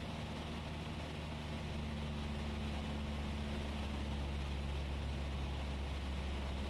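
Cessna 172S's four-cylinder Lycoming engine and propeller droning steadily in the cockpit in cruise flight, a low even hum that gets slightly louder about a second and a half in.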